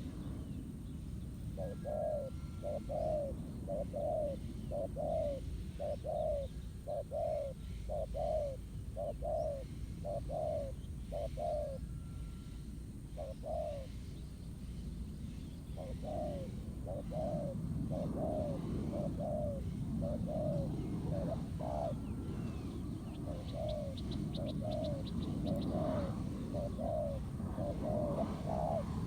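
Spotted dove cooing in long runs of short coos, about two a second, with a break of a couple of seconds near the middle, over a steady low rumble.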